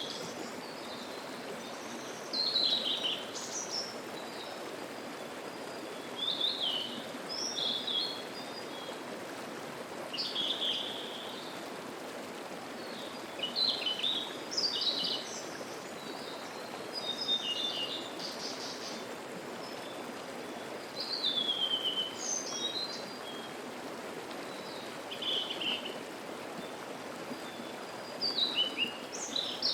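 Mountain stream babbling steadily, with wild songbirds singing short phrases every few seconds over it.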